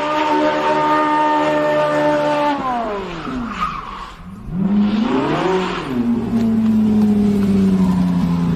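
A car engine held at high revs, then falling steeply about two and a half seconds in, dipping briefly and climbing again before holding steady at a lower pitch, with tyre squeal.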